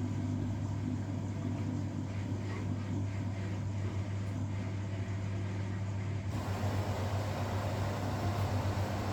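Front-loading washing machine running mid-cycle: a steady motor hum with a rush of noise that starts suddenly about six seconds in.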